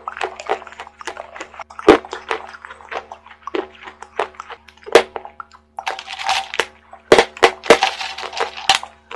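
Close-miked eating of wet chalk paste: wet mouth and chewing sounds with many crackly crunches, several of them sharp and loud.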